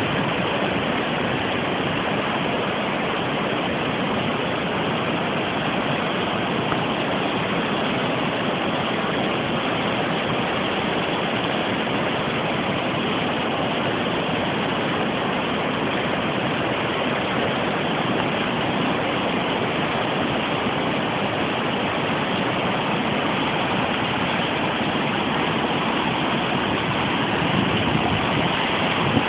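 Kho River in flood, its swollen water rushing past in a steady, loud, unbroken noise.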